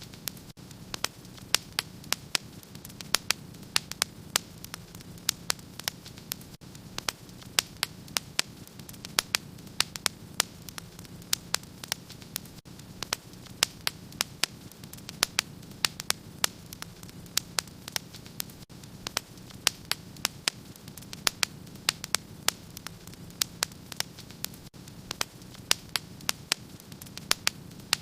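Wood fire in a fireplace crackling: sharp, irregular pops, several a second, over a steady low hiss and rumble from the flames.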